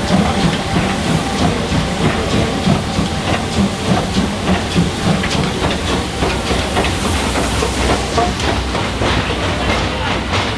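Steam locomotive working with a train, with hissing steam and a steady beat of about two strokes a second.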